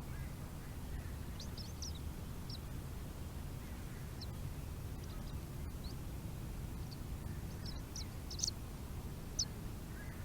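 Bird calls: short, high-pitched chirps in small scattered clusters, the two sharpest near the end, over a steady low rumble.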